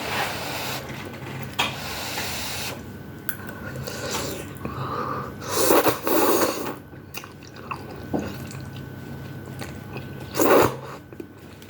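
Close-up eating sounds: chewing and crunching food, with two louder bursts, one about halfway through and one near the end.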